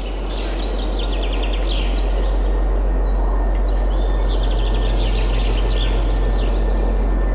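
Steady wind with songbirds singing rapid trills over it: one trill in the first two seconds and another about four seconds in.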